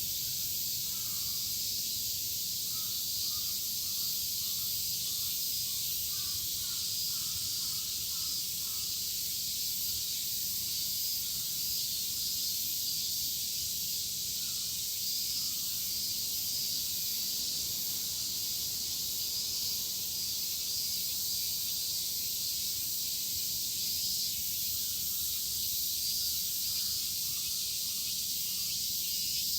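A chorus of cicadas singing in a steady, dense high buzz. Short bird calls come through faintly in two spells, early on and again near the end.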